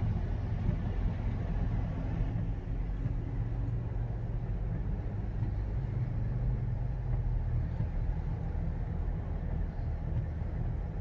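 Steady engine hum and road noise of a moving car, heard from inside the cabin.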